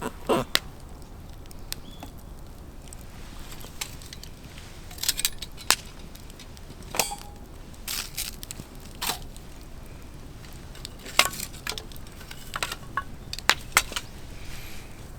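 Scattered sharp clicks, knocks and clinks at irregular intervals, about a dozen in all, a few with a short ringing tone, over a low steady background.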